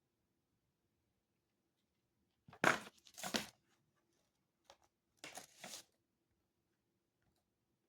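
Paper being handled: two brief rustling swishes, the first one loudest, a couple of light ticks, then two more rustles.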